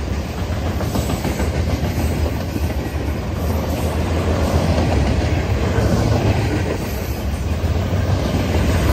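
Covered hopper cars of a freight train rolling past close by: a steady, loud rumble and clatter of steel wheels on the rails.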